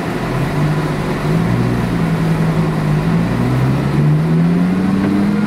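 Audi R8's 5.2-litre V10, fitted with a Torro aftermarket exhaust, running loud under load on a dyno. Its pitch climbs slowly and steadily through the second half as the revs build.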